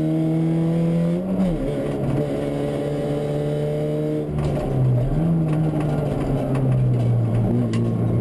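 Fiat Punto 1.8 rally car's four-cylinder engine pulling hard, heard from inside the cabin. The revs hold and climb slowly, dip and recover about a second in and again about four seconds in, with a few sharp ticks in the second half.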